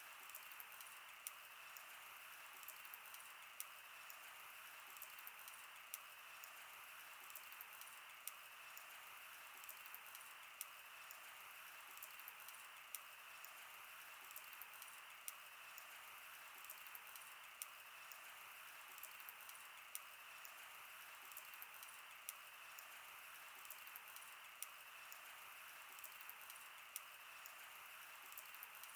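Wood fire crackling: a steady soft hiss with many small irregular pops and snaps.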